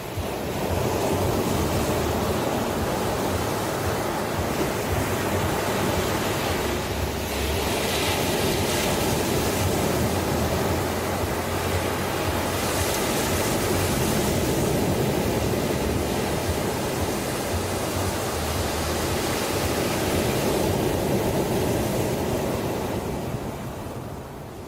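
Ocean waves washing onto a shore, a continuous surf hiss that swells, holds with a couple of brighter surges, and ebbs away near the end.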